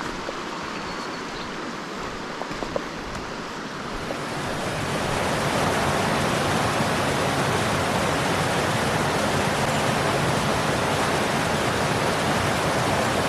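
Rushing water of a mountain headwater stream, a steady noise that grows louder about four seconds in and then holds.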